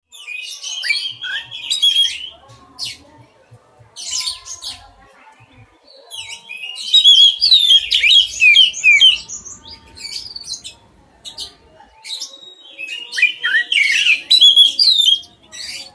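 A songbird singing in bursts of rapid, varied whistled notes: three loud song phrases about six seconds apart, with quieter gaps between them.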